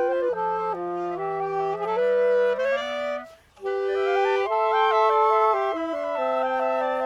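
Woodwind trio of flute, clarinet and saxophone playing held, overlapping notes in chords. The music breaks off for a moment about halfway through, then all three come back in together.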